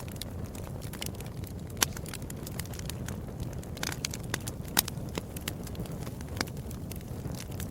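Wood fire crackling in a fireplace: a steady low rumble of flames under many small snaps, with a few sharper pops about two and five seconds in.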